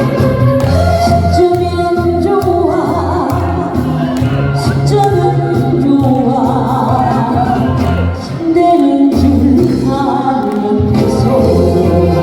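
A woman singing a Korean trot song live over a backing track with a steady bass line, in a large reverberant hall.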